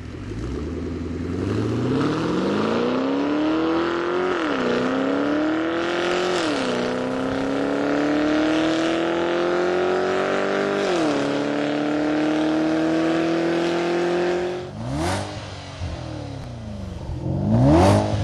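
Porsche Panamera Turbo's twin-turbo V8 through a REMUS titanium sport exhaust, accelerating hard through the gears: the engine note climbs, dropping at three quick upshifts, then the throttle is lifted and the note falls away. Two short loud bursts follow near the end.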